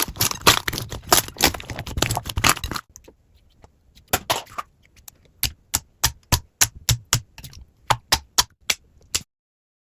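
Slime being squeezed and poked by hand, making sharp crackling clicks and pops: a dense run until about three seconds in, then a short lull, then separate crisp pops about three a second that stop abruptly near the end.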